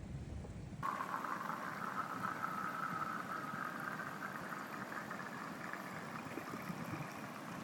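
Steady rush of running spring water, starting abruptly about a second in.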